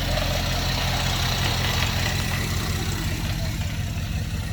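1971 Chevrolet C10 pickup's rebuilt engine idling steadily.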